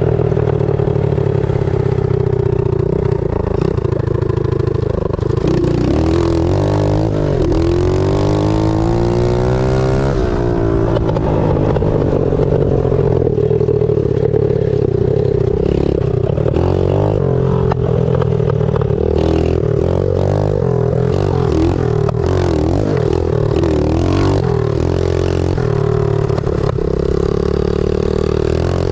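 Pit bike engine run at full throttle, its pitch climbing and dropping again and again as the rider revs up through the gears and backs off.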